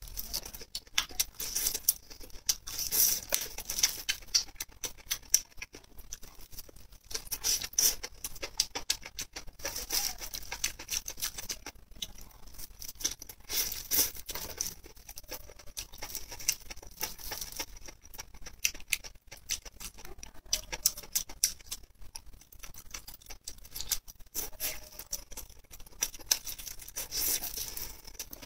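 Close-miked chewing and mouth sounds of a person eating sauce-coated skewered meat, a dense run of small clicks and smacks.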